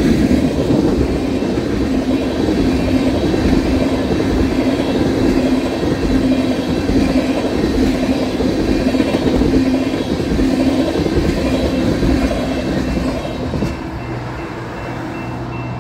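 Freight train of tank cars rolling past: a steady rumble of steel wheels on the rail with a humming tone and some clickety-clack. About 14 seconds in, the last car goes by and the sound drops off.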